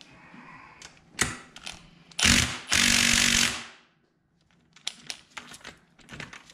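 Milwaukee cordless impact tool on a long socket extension, hammering on a cylinder base nut of a Polaris 600 CFI two-stroke engine to break it loose. There is a short loud burst a little after two seconds, then about a second of steady hammering that dies away. A few sharp metal clicks of the socket and extension come before it and again near the end.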